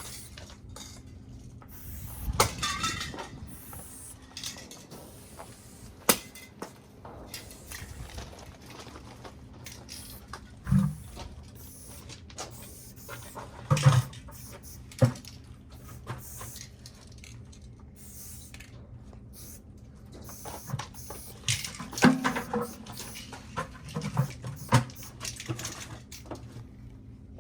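Aerosol spray-paint cans being handled: scattered metallic clinks and knocks, with a short rattle about two seconds in, over a steady low hum.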